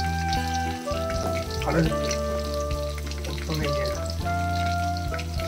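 Food sizzling as it fries in hot oil, under background music of held chords that change about every second.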